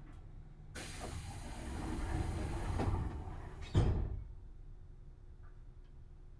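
Tobu Series 6050 train's air-operated sliding passenger doors closing: a rush of air for about three seconds, growing louder, then a single thud as the doors shut.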